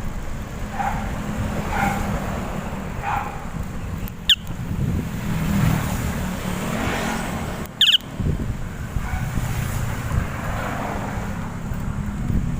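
Wind rumble on the microphone during a bicycle ride. A dog barks about once a second for the first few seconds, and two short high squeaks come about four and eight seconds in.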